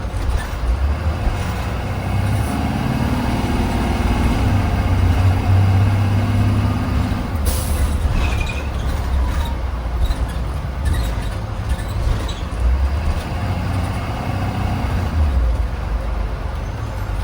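Blue Bird Vision school bus heard from inside while under way: a steady low engine drone and road rumble, with one short, sharp hiss of air from the air brakes about seven and a half seconds in.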